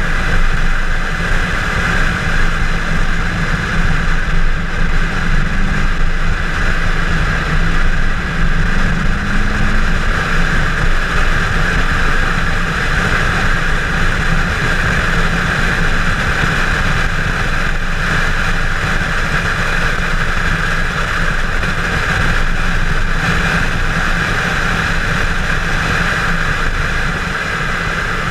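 Chevrolet Camaro 1LE engine and exhaust running hard at track speed, the pitch rising and falling with the revs, under steady wind rush over an outside-mounted camera.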